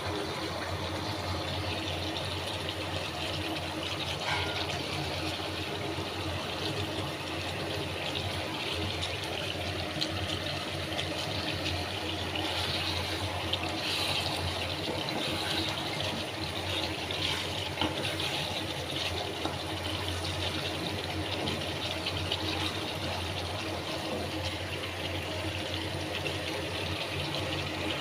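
Chicken pieces sizzling steadily in oil and spice paste in a pan as they are fried down for kosha, an even crackling hiss with a low hum underneath.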